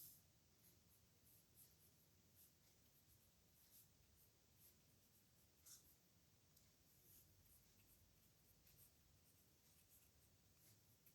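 A pen scratching faintly on paper in short handwriting strokes, with a slightly louder stroke right at the start and another about halfway through.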